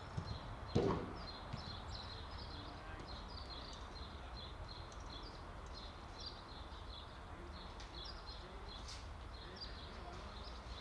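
Small birds chirping constantly in short repeated notes over a low steady rumble, with one sharp thump about a second in.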